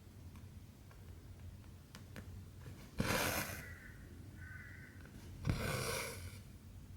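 Cotton embroidery thread drawn through 14-count cross-stitch fabric: two swishing pulls about three seconds and five and a half seconds in, with small ticks of the needle piercing the cloth between them.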